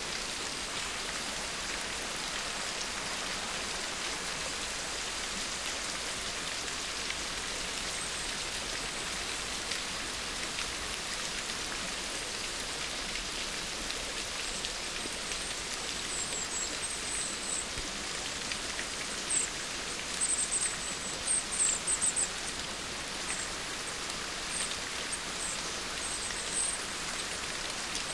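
Steady rain-like hiss. From about halfway through, brief high-pitched blips sound over it.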